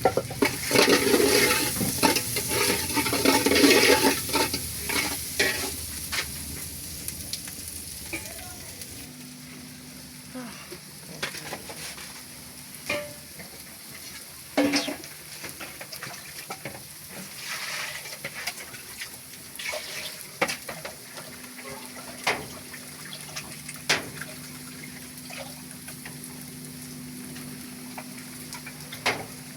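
A pot of spaghetti sizzling in oil, stirred with a spoon that scrapes and knocks against the pot. About nine seconds in it suddenly gets quieter: scattered knocks and clicks over a low steady hum.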